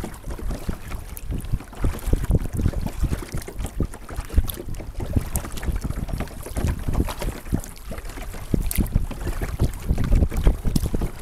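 Wind buffeting the microphone of an action camera mounted on a sit-on-top kayak, a low, gusty rumble, with water splashing and lapping against the hull.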